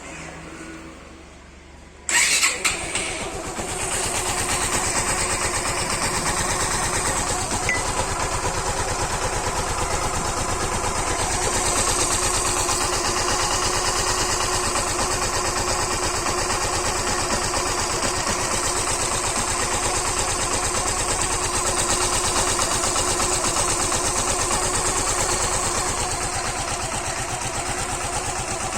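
Suzuki Gixxer BS6 fuel-injected single-cylinder engine starting about two seconds in, then running steadily. Its top end is freshly rebuilt with a new piston, cam chain and adjuster, with the timing marks aligned and the tappet clearance adjusted.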